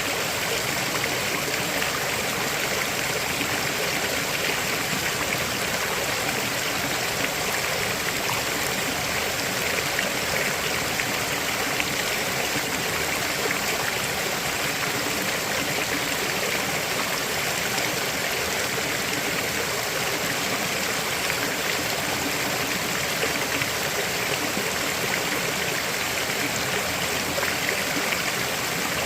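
River water flowing steadily over rocks, an even rushing with a fine splashing texture.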